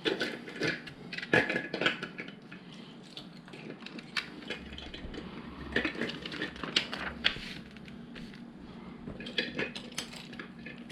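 Loose plastic LEGO pieces clicking and clattering as hands handle and sort through them, with many irregular sharp clicks.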